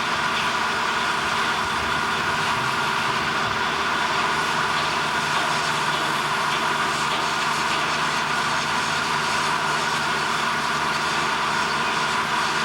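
Steady industrial machinery noise: an even drone with a few held tones, no breaks and no sudden knocks.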